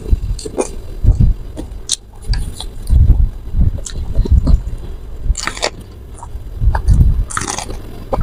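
Close-miked chewing of raw bitter melon, a run of low, wet thumps from the jaw with a couple of crisp crunches about five and a half and seven and a half seconds in.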